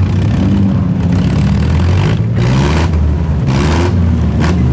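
Engines of compact demolition derby cars running and revving, their pitch rising and falling, with three short bursts of harsh noise about two, three and a half, and four and a half seconds in.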